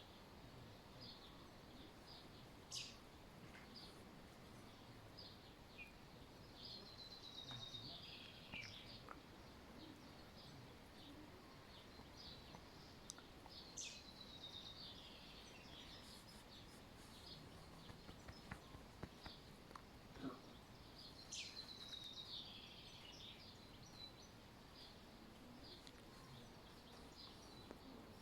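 Faint birdsong: scattered short chirps, with a longer descending song phrase heard three times, about seven seconds apart.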